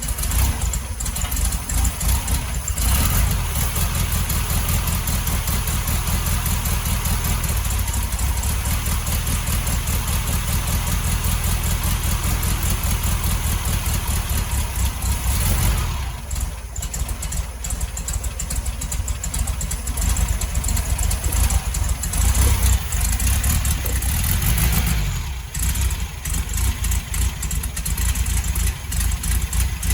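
Air-cooled VW Beetle flat-four engine running, with short dips in level about halfway through and again later. The carburetor is now drawing fuel after the car sat unused and would not start.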